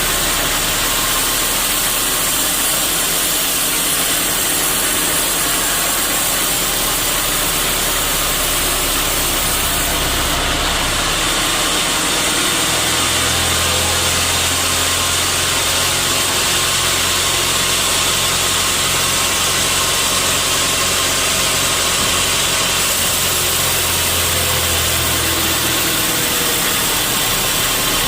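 Sawmill machinery running, a loud steady noise; a low hum sets in about twelve seconds in and drops away near the end.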